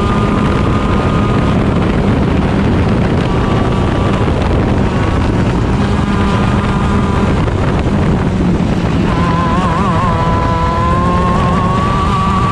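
Stock Honda 125cc two-stroke shifter kart engine running at race speed under heavy wind rumble on the onboard microphone. About nine seconds in the engine note drops and wavers, then climbs steadily through the last few seconds as the kart accelerates again.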